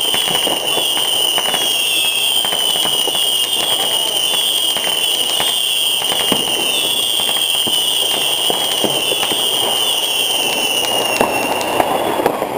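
New Year's fireworks going off: a dense, continuous crackling and popping of firecrackers, with a high warbling whistle held over it that fades out near the end.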